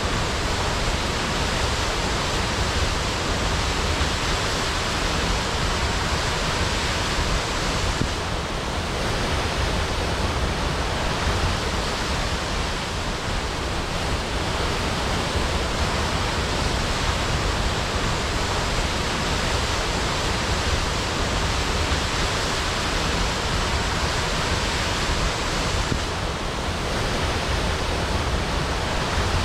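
Waterfall crashing: a dense, steady rush of falling water with no pauses.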